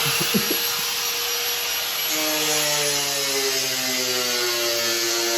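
Handheld power tool cutting into a plastic car bumper: a steady whine over a continuous rasping hiss. About two seconds in, a lower whine joins and slowly drops in pitch as the tool works.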